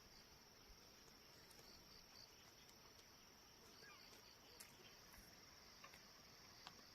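Near silence with faint, steady, high-pitched insect trilling and a few faint clicks.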